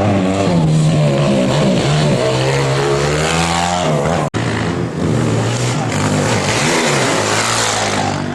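Motorcycle engines revving up and down at racing speed, their pitch rising and falling repeatedly, with a brief break about four seconds in.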